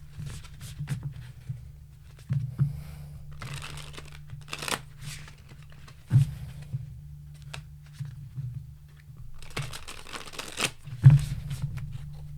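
Tarot cards being shuffled and handled: several short bursts of shuffling with light taps and knocks in between.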